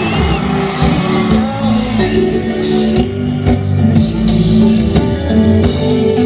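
Live band music in a slow pop ballad: held keyboard chords and electric guitar over a steady drum beat.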